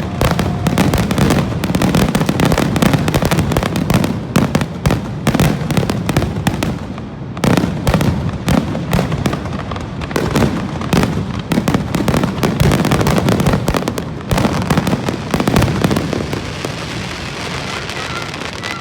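Aerial fireworks in a dense, nearly continuous barrage of booming bursts and crackling, with a heavy low rumble. The bursts thin out and quieten over the last few seconds.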